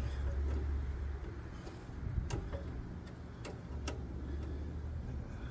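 A few separate sharp clicks and taps, about four spread irregularly through the middle, over a low steady rumble: tools and metal parts being handled during reassembly of the aerator's lever linkage.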